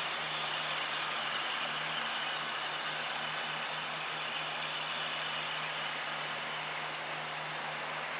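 A standing railway locomotive giving off a steady hiss over a low, even hum, with no rhythm or sudden sounds.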